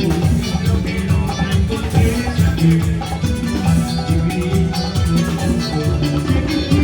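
A band playing rhythmic dance music, with drums and shaken percussion driving a steady beat over a strong bass line.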